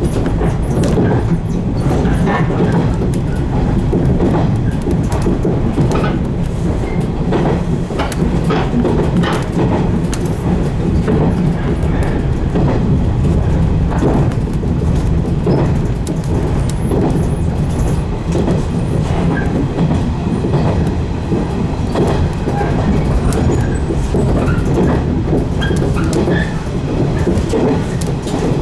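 115 series electric train running along the line, heard from inside the leading car: a steady low rumble with frequent clicks and knocks of the wheels over the rails.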